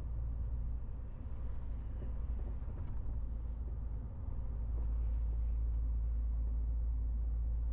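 MAN TGX 18.470 truck under way: its straight-six diesel gives a steady, deep drone with road rumble, getting a little louder about five seconds in.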